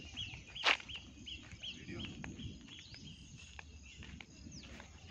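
A bird repeating a short chirp about three times a second, over a low outdoor rustle, with one sharp click just under a second in.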